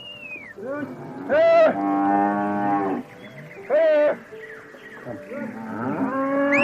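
Cattle mooing: several loud calls, the longest held for about a second and a half.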